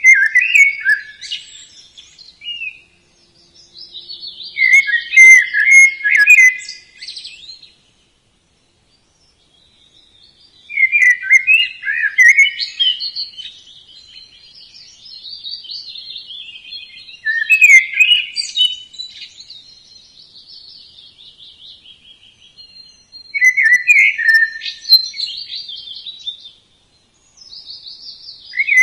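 Budgerigars chirping and chattering, quick high warbling calls in bursts of a few seconds with short breaks between them.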